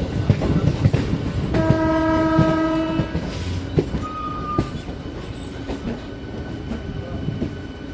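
Indian Railways train running with rumble and wheel clatter, loudest early and then fading. A steady horn sounds for about a second and a half starting near 1.5 s in, followed by a brief higher tone about four seconds in.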